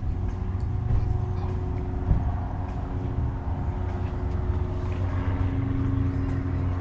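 Steady low mechanical hum with several held tones running through it.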